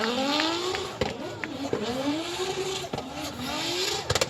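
A car engine revving three times, its pitch climbing on each rev.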